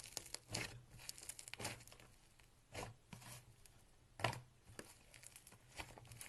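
Clay slime being kneaded and stretched by hand, giving irregular sticky crackles and pops, with one louder pop about four seconds in.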